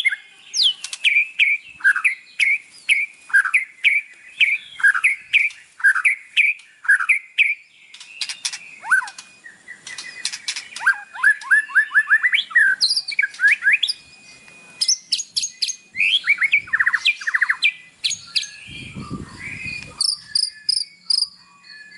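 White-rumped shama (murai batu) singing: a fast run of clear whistled notes sweeping down in pitch, repeated about twice a second at first, then more varied phrases, with a harsh rasping call about nineteen seconds in. It is a provocation song played to captive shamas to spur them to sing and fight.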